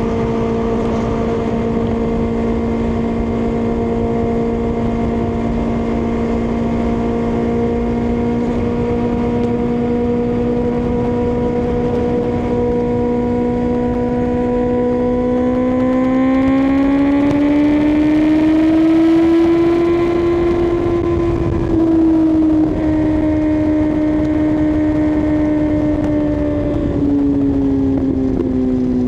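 2024 Kawasaki ZX-6R's inline-four engine running at steady revs, then rising in pitch as the throttle opens about halfway through, holding higher, and easing back down near the end, over a steady rushing noise.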